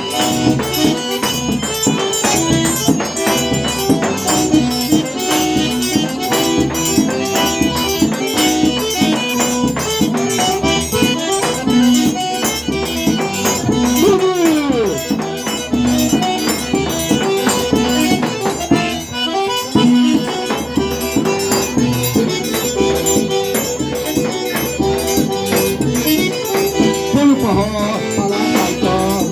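Forró instrumental: an eight-bass button accordion plays the melody over a steady, quick shaker rhythm and a regular low drum beat.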